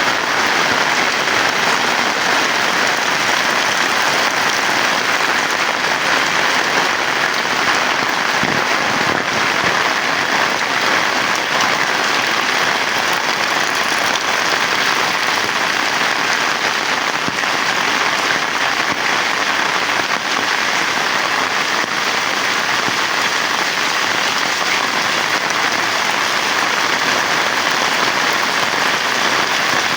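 Heavy rain falling steadily, an unbroken dense patter.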